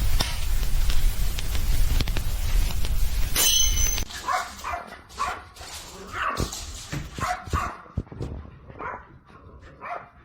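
A dog barking and yipping in a string of short calls, several a second, starting about four seconds in, after a loud rushing noise with a low rumble at the start.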